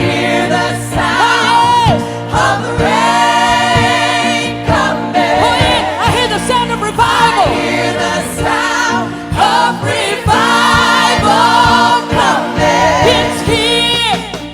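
Gospel choir singing over a held accompaniment, with long sustained and gliding vocal lines.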